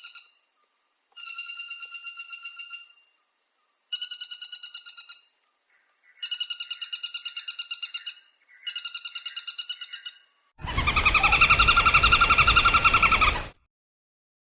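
Woodpecker calls: fast, rattling trills of about ten notes a second, each lasting a second and a half to two seconds, repeated four times with short gaps. A louder, rougher trill from another recording follows near the end and cuts off suddenly.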